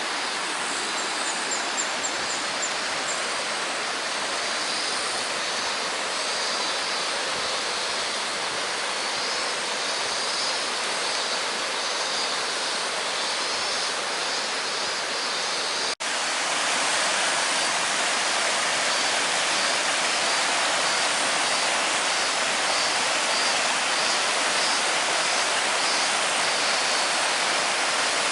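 Flowing water rushing steadily, like a stream or small river, with a brief break about halfway through after which it is slightly louder.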